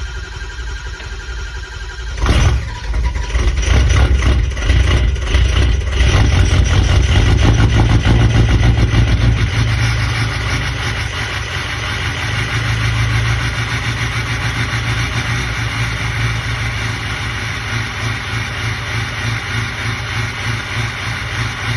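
Ford 6.0 Power Stroke V8 turbo-diesel starting: it cranks, catches with a loud burst about two seconds in and runs unevenly for a few seconds before settling into a steady idle. The owner blames bad injectors for how it runs.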